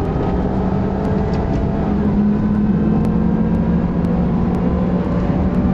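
Supercharged Lexus IS350's 3.5-litre V6 running hard on track, heard from inside the car. The engine note is steady and rises a little in pitch as it pulls.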